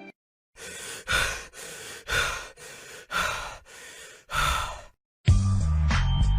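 A person breathing heavily: four breaths in and out, alternating softer and louder, about a second each. Music with a beat kicks in near the end.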